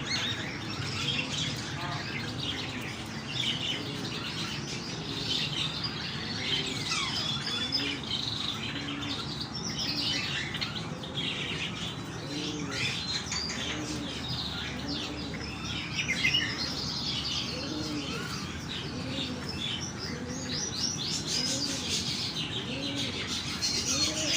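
Many small birds chirping over one another. From about a third of the way in, pigeons give repeated low cooing calls, each rising and falling, about once a second.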